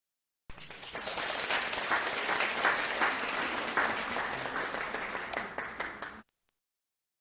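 Applause from a crowd, many hands clapping, starting suddenly about half a second in and cutting off sharply about a second before the end.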